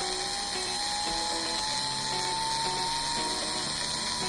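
A fast-forward editing sound effect: a high, drill-like electronic whine rising slowly in pitch over quick, stepping music notes, starting to slide down in pitch right at the end.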